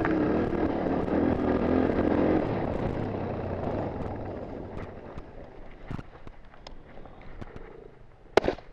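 Dirt bike engine running, loud for the first couple of seconds and then fading away over several seconds. A few faint knocks follow, then a sharp loud double bang near the end.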